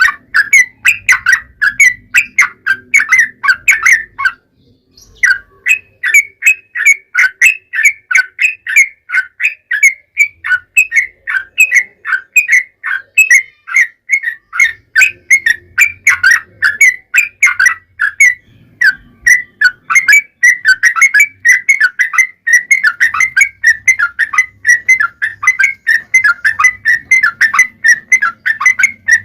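Yellow-vented bulbul (trucukan) singing a long, fast run of short, chattering whistled notes with hardly a gap, pausing once briefly about four seconds in.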